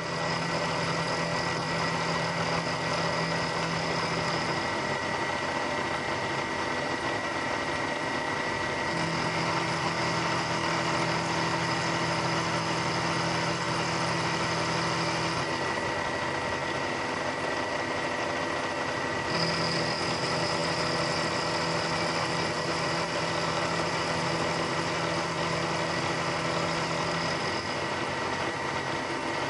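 Bridgeport milling machine running, its 3/8 in high-speed steel four-flute end mill cutting aluminum lubricated with WD-40. Over a steady machine hum, a higher cutting tone comes and goes three times as passes are taken.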